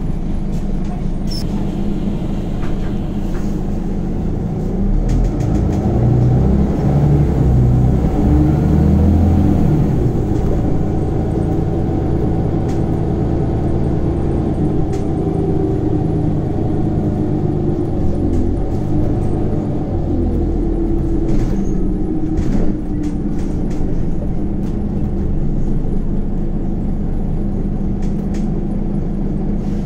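Scania Omnicity city bus's diesel engine and ZF Ecomat automatic transmission heard from inside the passenger cabin. The engine pulls harder and climbs in pitch for a few seconds about five seconds in, then drops back and runs steadily under way, with a few light knocks from the bodywork.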